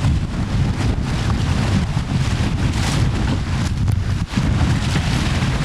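Strong wind buffeting the microphone over water rushing past the hulls of a Tornado catamaran sailing fast, with a brief lull about four seconds in.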